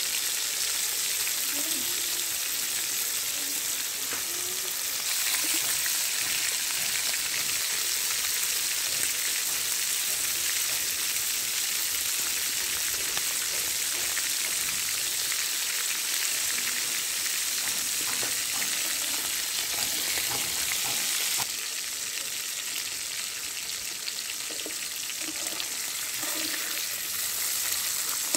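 Chicken pieces sizzling steadily in hot oil in a metal karahi, with a metal spatula now and then stirring and turning them.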